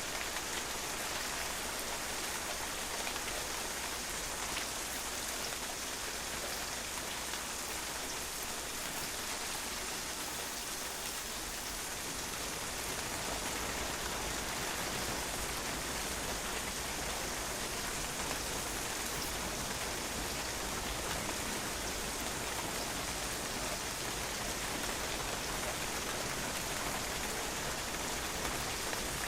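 Steady rain falling and drops spattering on a patio, an even hiss of water.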